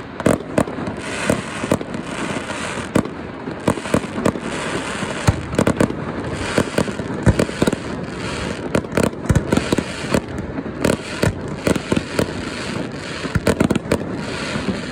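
Fireworks display going off: many sharp bangs in quick, irregular succession over a steady background din.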